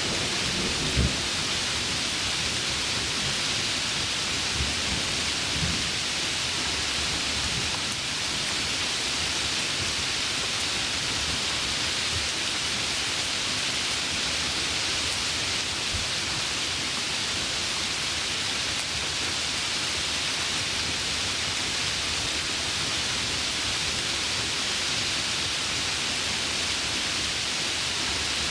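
Heavy rain falling steadily, with a few low rumbles and cracks of thunder in the first several seconds that die away into the steady downpour.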